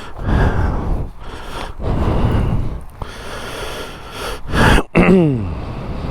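A man breathing heavily close to the microphone, with rustling, then a short groan falling in pitch about five seconds in.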